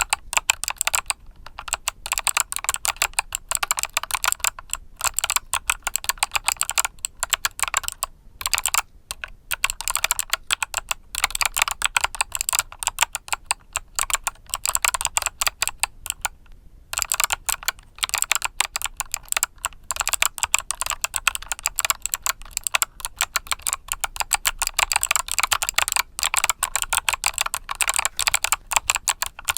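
Mechanical keyboard with Kailh Box Summer switches being typed on steadily: a dense run of sharp key clicks, broken by a few brief pauses.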